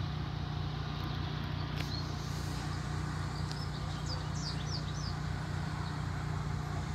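Ice cream truck's engine idling with a steady low hum. A few short bird chirps come through about halfway through.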